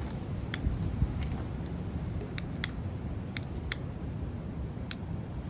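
A camping stove's piezo igniter clicking about five times at uneven intervals as it is pressed to light the burner, over a low rumble of wind.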